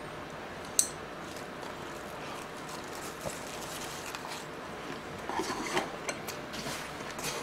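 Close-miked chewing of a mouthful of lettuce-leaf wrap with pork rib: crisp leafy crunches and wet mouth clicks, busiest in the second half. There is one sharp click about a second in.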